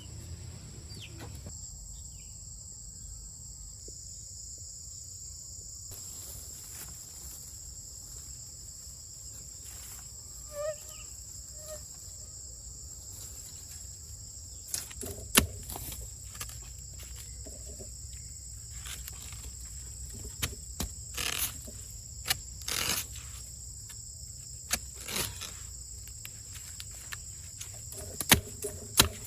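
Outdoor rural ambience with a steady, high-pitched insect drone and a low background rumble; one short animal call about a third of the way in, and a scatter of sharp knocks and clicks through the second half.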